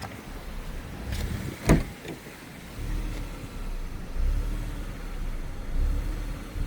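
Hyundai i20 engine running with a low, uneven rumble, and one sharp knock just under two seconds in.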